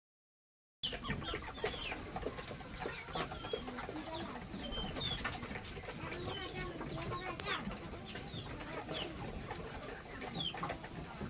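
Chickens clucking, with many short, high, falling chirps throughout, starting just under a second in.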